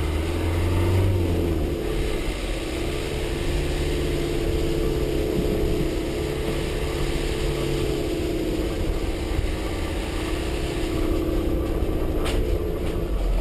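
Dacia Duster's 1.5 dCi diesel engine running at a steady pace with road noise while driving, giving a steady drone. There is a short knock near the end.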